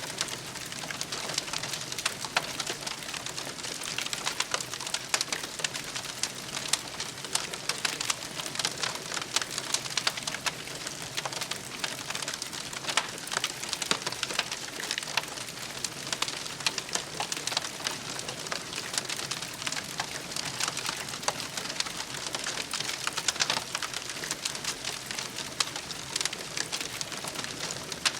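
Campfire burning, crackling with many small sharp pops and snaps over a steady hiss.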